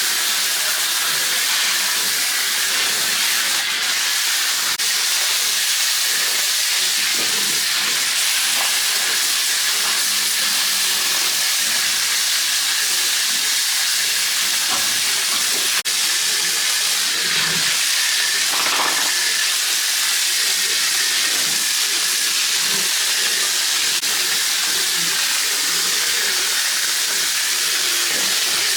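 A steady, even hiss that holds the same level throughout.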